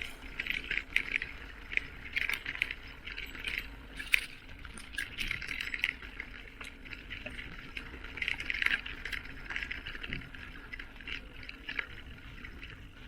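Irregular light rattling and clicking from a bicycle being ridden, with a low rumble underneath.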